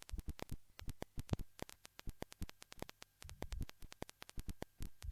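Irregular crackling clicks, several a second, like static on an old recording, with a brief low rumble a little past halfway.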